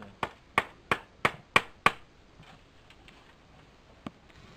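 Hammer blows: six sharp strikes in a quick even rhythm of about three a second, then a single strike about four seconds in.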